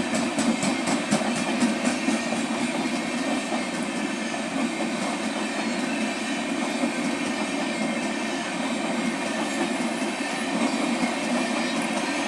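Train running past on the rails: a steady rumble of wheels on track, with rapid, evenly spaced clicks in the first couple of seconds.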